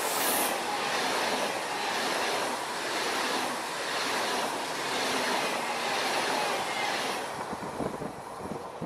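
Pendolino ED250 electric multiple unit passing through at speed without stopping: a loud rush of wheel and air noise with a regular pulsing as the cars go by. It fades as the last car passes, about seven and a half seconds in.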